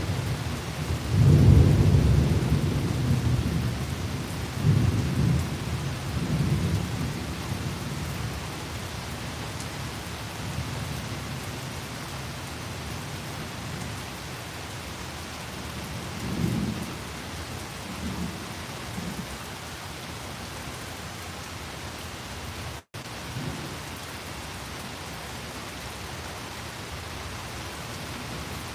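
Steady rain falling during a thunderstorm, with a long low rolling rumble of thunder starting about a second in and dying away over several seconds. Two fainter rumbles follow about halfway through.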